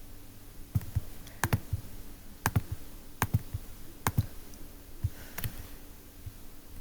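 Irregular clicking of computer controls, about a dozen sharp clicks, some in quick pairs, over a faint steady low hum.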